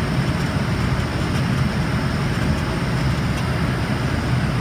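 Steady cabin noise of an Embraer ERJ-145 regional jet in flight: the drone of its rear-mounted turbofan engines and the rush of air past the fuselage, heard from inside the cabin.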